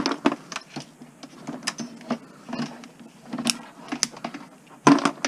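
Irregular plastic clicks and crackles as Christmas light strings are handled and their plastic bulb sockets are worked off the wire, the plastic cold and brittle.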